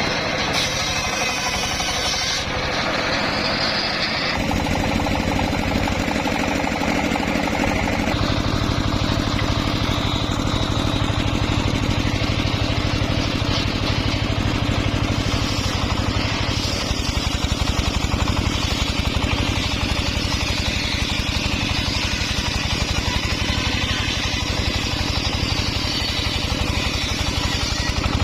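Engine-driven homemade circular saw rig running steadily, its tone shifting a few times in the first eight seconds.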